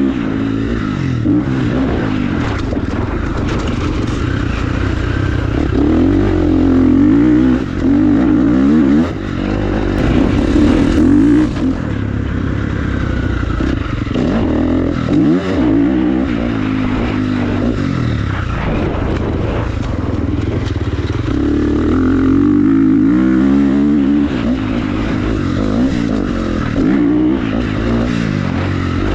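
Motocross dirt bike engine revving up and falling off again and again as it is ridden, the pitch climbing and dropping with the throttle.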